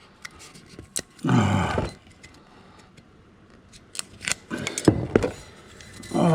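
A man groans twice with falling pitch while struggling to open a stubborn whisky bottle. Between the groans comes a run of sharp clicks and scraping from the bottle's cap and seal being worked.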